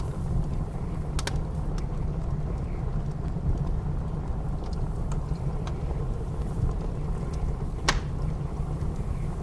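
Steady low rumble of blizzard wind with a wood fire crackling over it: a few scattered sharp pops, the loudest about eight seconds in.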